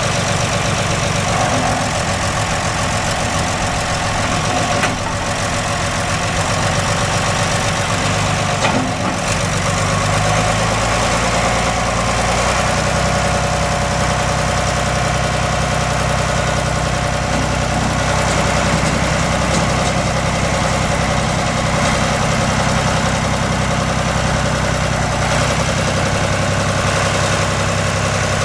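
John Deere 2955 tractor's six-cylinder diesel engine idling steadily, its note shifting slightly about nine seconds in, with two short knocks before that.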